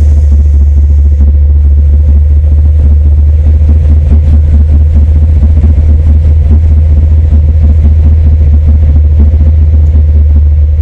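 468 cubic-inch big-block V8 of a 1964 Chevrolet pickup street rod, running steadily and very loud, its sound mostly deep and low.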